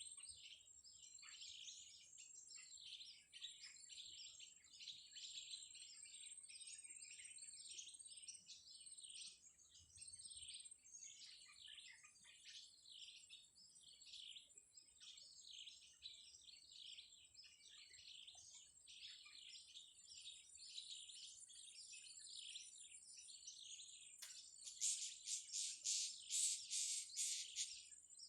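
Faint, dense chattering of small birds, with rapid high chirps overlapping throughout and a thin steady high tone behind them. About three seconds before the end, a louder, closer run of rapid shrill calls.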